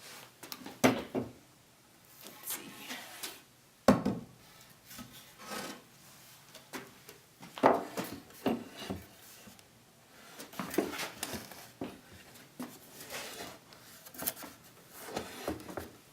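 Wooden 2x4 lumber being handled on a work surface, with irregular knocks and scraping rubs. Sharp knocks stand out about a second, four seconds and eight seconds in.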